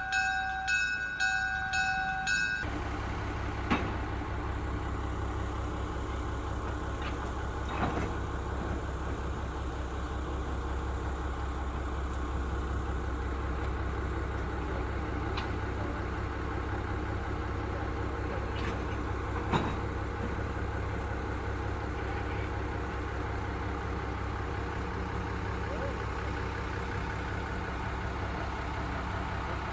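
Locomotive bell ringing about twice a second, stopping about two and a half seconds in. A steady low rumble of an idling locomotive engine follows, with a few sharp knocks or clanks.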